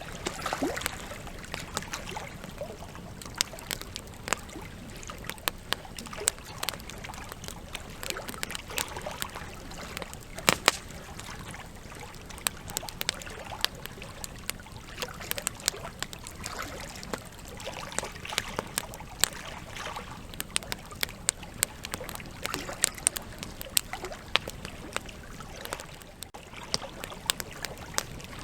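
Wood campfire burning, with irregular sharp crackles and pops over a steady hiss; the loudest pop comes about ten seconds in.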